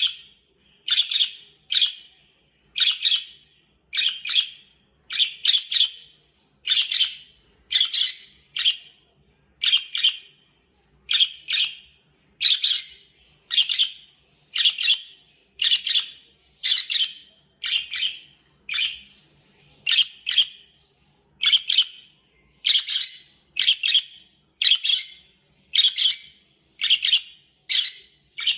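Budgerigar chirping: short, sharp calls repeated at a steady pace of about one a second, many of them in quick pairs.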